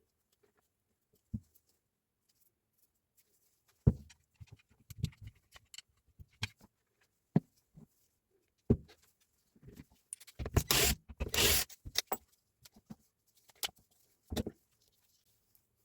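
Tools and parts being handled during a repair: scattered clicks and knocks, the sharpest about four seconds in, with a longer rustling, scraping burst a little after ten seconds.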